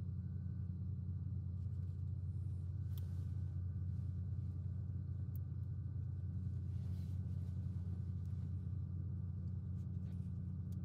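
Steady low background hum, with a few faint light clicks of small plastic toy gearbox parts being handled and fitted.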